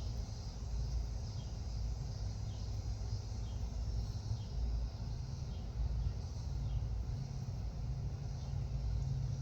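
Outdoor ambience: a steady low rumble underneath, a high steady hiss of insects, and short falling chirps from a small bird about once a second.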